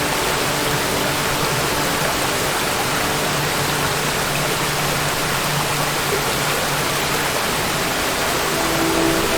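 Waterfall: a steady, even rush of falling water. Faint sustained musical tones come in near the end.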